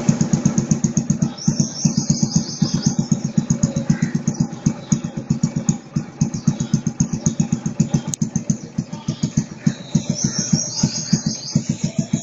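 Small engine idling: an even, rapid thudding of several beats a second that holds steady throughout.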